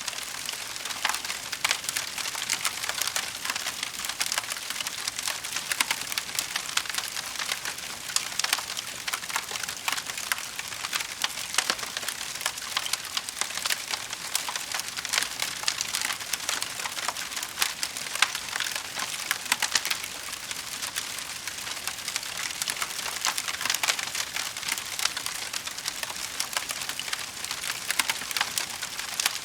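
Wood fire in a fireplace crackling steadily, with a dense run of small pops and snaps.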